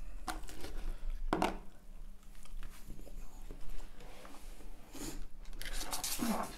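Close-miked eating: a bite into a double Big Mac followed by chewing, with a few sharp clicks of food handling near the start.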